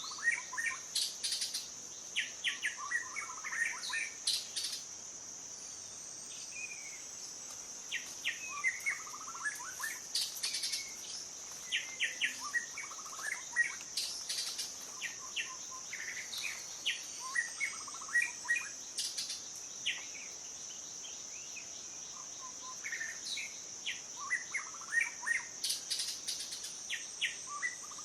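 Small birds chirping and calling in bursts of quick notes, with short lulls between bouts. Under them runs a steady high-pitched insect drone, like crickets.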